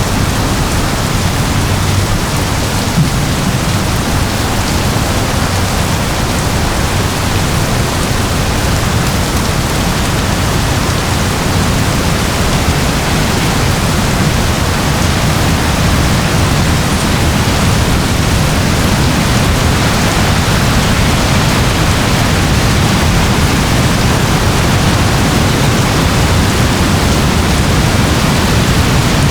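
Steady rain, an even hiss with a low rumble underneath and no single drops or claps standing out.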